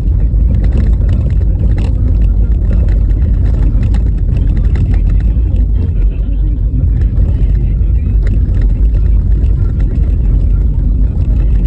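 Car driving on a rough, bumpy snow-covered road: a steady heavy low rumble of tyre and road noise, with many small clicks and rattles from the jolting.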